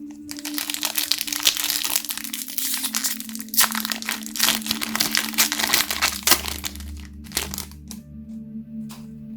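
Crinkling and crackling of packaging from a Pokémon trading-card box being handled and opened by hand, dense for about seven and a half seconds and then stopping, over soft ambient music with a steady low drone.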